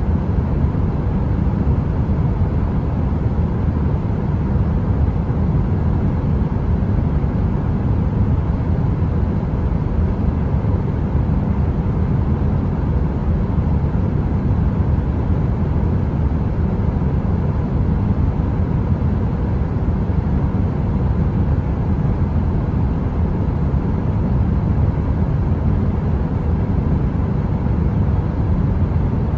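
Heater running: a steady, deep rumbling noise with a faint steady hum on top, unchanging throughout.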